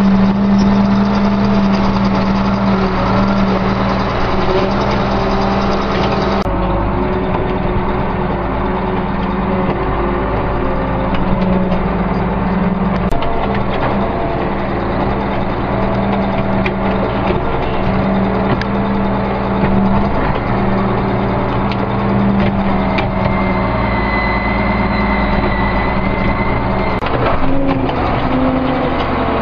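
Case 2290 tractor's turbocharged six-cylinder diesel engine running steadily, with a few sharp knocks and a faint high whine for a few seconds near the end.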